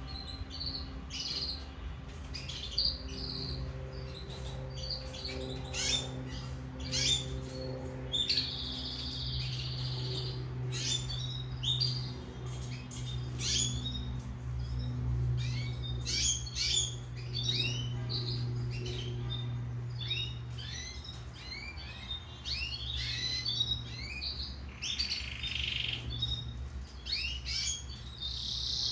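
Domestic canary singing a long, continuous song of rapid chirps, trills and rolls, with a low steady hum underneath.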